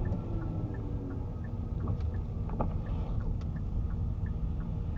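Car interior noise while driving: steady low engine and road rumble, with a faint regular ticking about three times a second.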